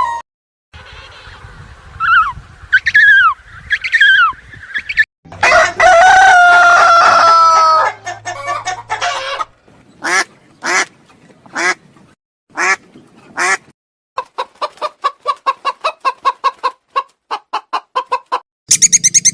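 Domestic chickens calling in a series of separate clips: a rooster crowing in one long call about five seconds in, and short clucks, then a fast run of clucking in the second half.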